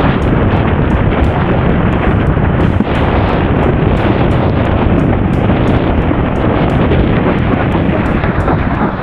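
Strong wind buffeting the microphone, loud and steady, over the rush of water from a windsurf board sailing fast in high wind.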